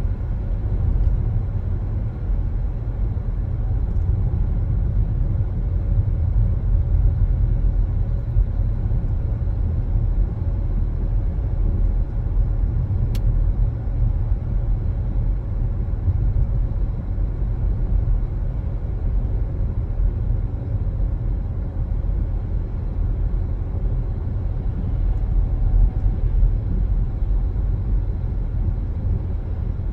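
Car driving at a steady pace: a continuous low rumble of tyres on the road and the running engine.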